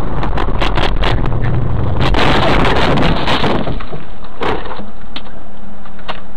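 Dash-cam audio from a speeding car: loud road and wind rush with a run of knocks and clatter over the first three seconds as the car strikes a pedestrian. After that it settles to steady road noise with a few isolated clicks and a low hum.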